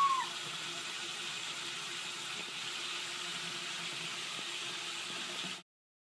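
Tap water running steadily into a sink, a smooth even hiss that cuts off suddenly near the end. Two short high chirps sound right at the start.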